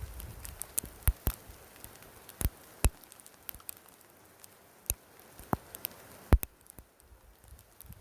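Graupel (small hard snow pellets) falling and ticking on surfaces: scattered, irregular sharp clicks, a handful loud and many faint.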